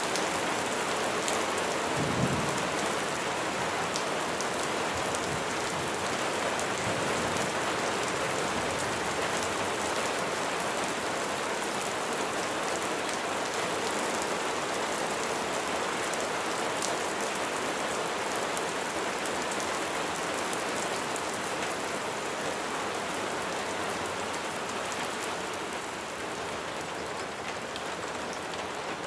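Heavy rain falling steadily, with many individual drops pattering close by. A brief low thump about two seconds in, and the rain eases slightly near the end.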